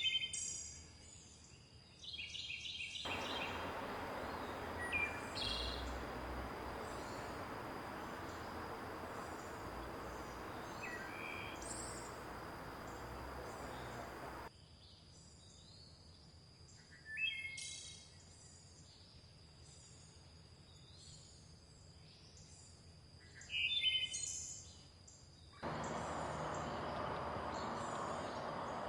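Forest birds chirping and calling in short repeated phrases over a steady high-pitched tone. The rush of a river starts abruptly about three seconds in, cuts off suddenly midway, and cuts back in near the end.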